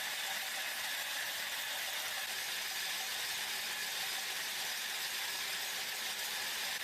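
Steady, even hiss of factory machinery running, with no distinct beat or separate strokes.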